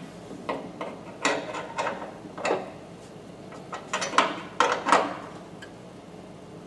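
Hand tools clicking and knocking on the car's sheet metal while bolts inside the fender are worked on: about a dozen short, irregular clicks, bunched about a second in and again around four to five seconds in.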